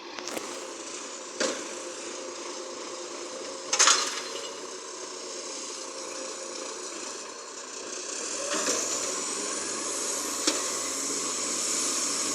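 Recycling garbage truck running, with two sharp knocks, the louder about four seconds in. From about eight and a half seconds in the noise grows and a high whine slowly rises.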